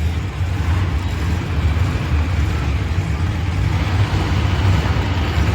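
Monster truck engine running with a deep, steady rumble.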